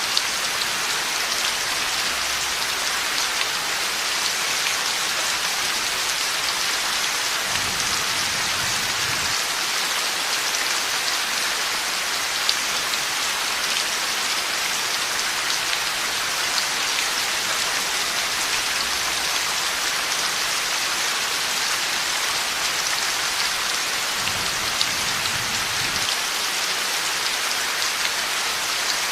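Heavy rain falling steadily in an even hiss, with two faint low rumbles of distant thunder, about eight seconds in and again near the end.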